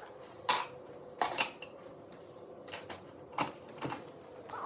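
A scattering of light, irregular clicks and knocks, about seven in all, from small objects being handled and set down, over a faint steady hum.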